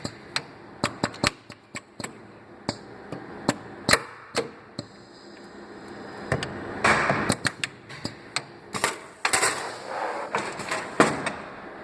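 Custom CNC pin welder at work on stainless steel wire: an irregular string of sharp clicks and snaps, with short hissing bursts about seven seconds in and again near ten seconds.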